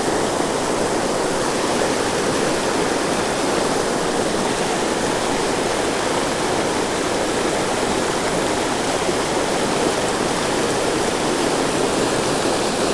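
Creek water rushing steadily over a small waterfall.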